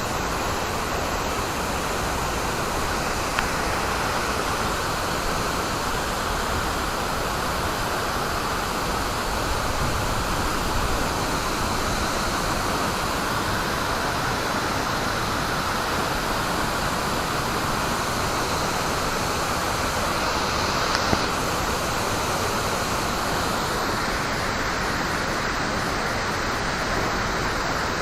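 A waterfall: water falling in a steady, unbroken rush.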